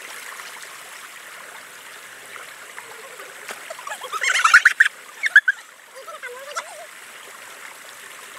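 Steady rush of a flowing river, with a loud burst of rapid, high-pitched cries about four seconds in, followed by a few shorter cries and a lower wavering call.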